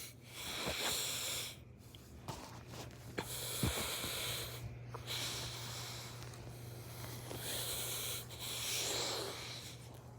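Heavy breathing close to the phone's microphone, a breathy hiss in long breaths with short pauses between them, over a faint steady low hum.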